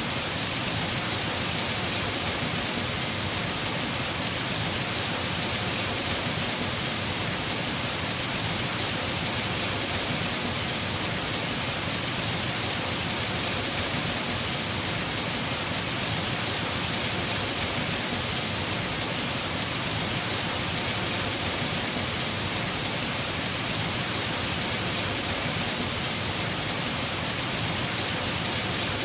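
Heavy rain falling steadily on a house roof, an even hiss of many drops with no breaks.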